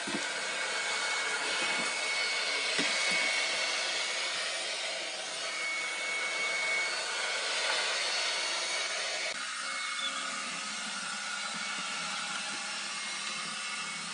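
Narwal Freo robot vacuum-mop running, its suction fan making a steady whooshing hiss. The sound changes slightly about nine seconds in.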